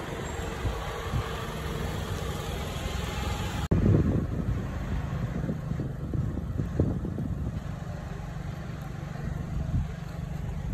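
Toyota Harrier's 2.0-litre petrol engine idling with a steady low hum. The sound cuts off abruptly about four seconds in and picks up again.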